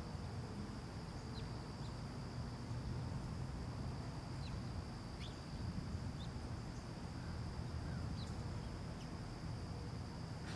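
Residential outdoor ambience: a steady low rumble of distant traffic under a constant high insect drone, with short, downward-sliding bird chirps scattered throughout.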